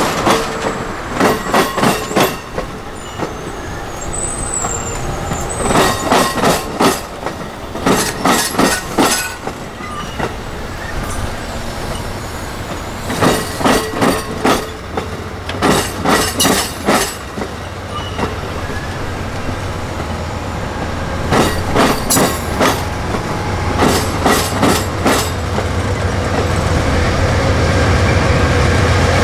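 Passenger train rolling slowly over a railroad diamond crossing. Its wheels clack across the diamond's rail gaps in tight clusters every few seconds, one cluster per truck, over a steady rolling noise. A low rumble builds near the end.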